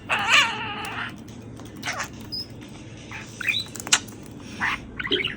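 Pet parakeet chirping and chattering: a wavering, warbling call in the first second, then a series of short, sharp chirps and squeaks.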